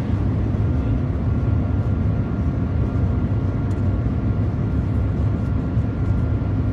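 Steady low rumble of air and running noise inside the cabin of the Shanghai Maglev train at full cruising speed, about 430 km/h, with a faint steady high whine over it.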